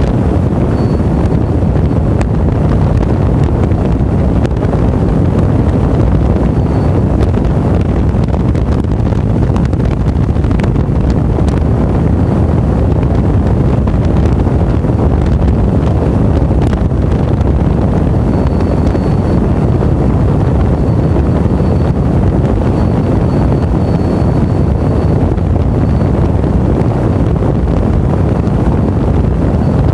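Wind buffeting the microphone of a moving motorcycle, a loud, steady low rumble, with the motorcycle's engine and road noise running underneath.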